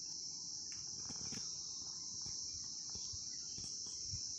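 Crickets chirring in a steady, unbroken high-pitched chorus, with a few faint clicks and knocks.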